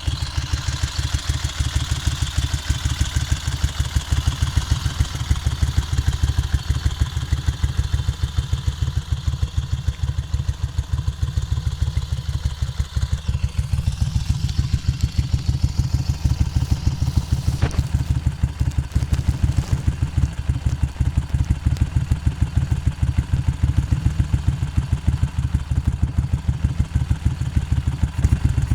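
Moto Guzzi Le Mans II's air-cooled 850 cc V-twin idling through Lafranconi exhausts, a steady, even beat that holds at one speed without revving.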